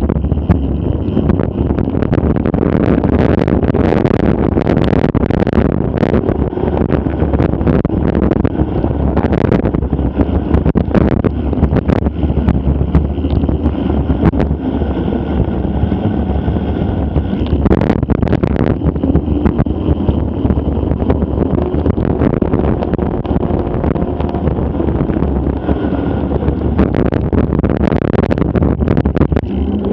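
Mountain bike riding over rough ground, filmed on an action camera: a steady low rumble from wind and tyres on the microphone, with frequent knocks and rattles from the bike.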